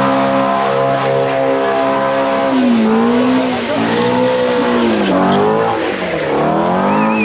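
An engine held at high revs, then revving up and down several times, over the hiss and squeal of spinning tyres as a vehicle drifts. A high wavering whistle comes in near the end.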